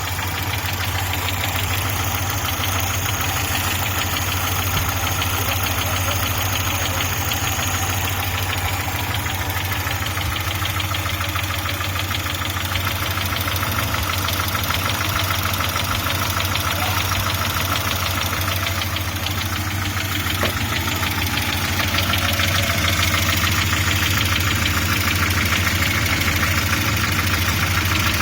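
Audi 80 B3 engine idling with a steady, rapid knock, the engine knock the owner is demonstrating. It gets a little louder about three-quarters of the way through.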